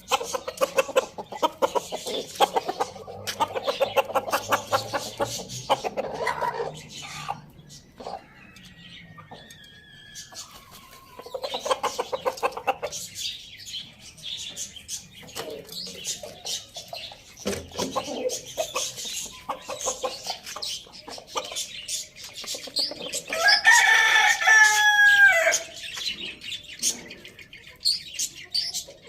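Chickens clucking, with quick, dense calls in the first several seconds. Near the end, a rooster crows once for about two seconds, the loudest sound here.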